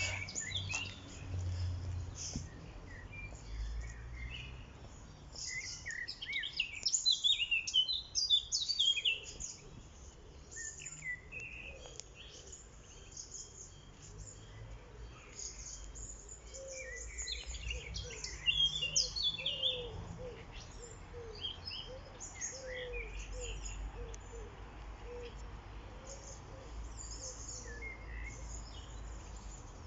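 Several songbirds singing and chirping together, with quick high chirps and trills coming in bursts. Through the second half a lower, short note repeats over and over beneath them.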